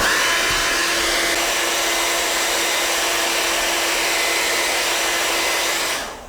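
Hair dryer blowing steadily, a rush of air with a steady hum under it, switched on at the start and off about six seconds in. It is drying contact cement on boot leather.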